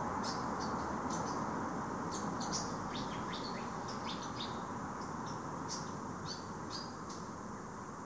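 Small songbird calling in the garden canopy: quick, high, thin chirps in loose clusters, stopping about a second before the end, over a steady background hiss.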